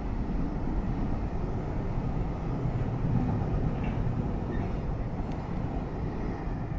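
Container freight train's wagons rolling past at speed close by: a steady rumble of steel wheels on the rails.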